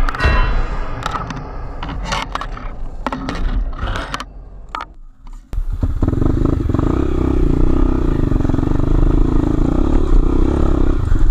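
Scattered knocks, scraping and clatter for about five seconds, dying down to fairly quiet. Then an enduro motorcycle engine suddenly comes in, running steadily and loudly.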